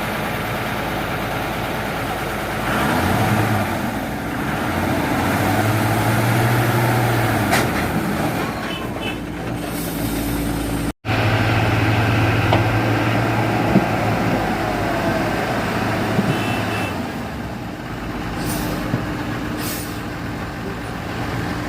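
Tata 1613 tipper truck's diesel engine labouring under load, its pitch climbing and easing as it pulls. Two short hisses come near the end.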